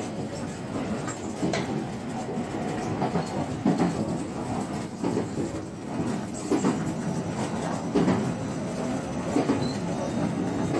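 JR West 125 series electric railcar running along the line, heard from inside the train: a steady running rumble with irregular clattering knocks from the wheels over the track.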